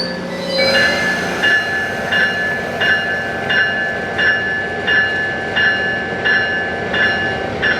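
Metrolink commuter train's bell ringing steadily, about one and a half strokes a second, as the train prepares to leave the station, over a steady low diesel hum.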